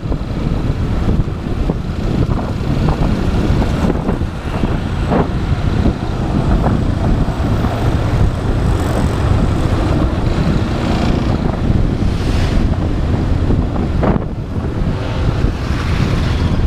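Motorcycle on the move: the engine running under heavy wind rush on the microphone, with a few brief thumps or gusts.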